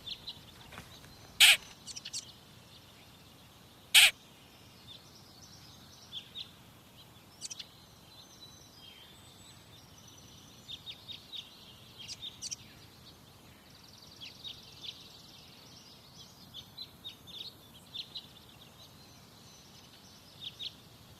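Small birds chirping faintly and on and off. Two short, loud sharp sounds come about a second and a half and four seconds in.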